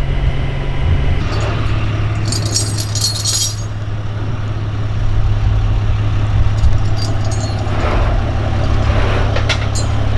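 Vehicle engine running steadily with a constant low hum, a burst of metallic rattling about two seconds in, and a few sharp clicks near the end.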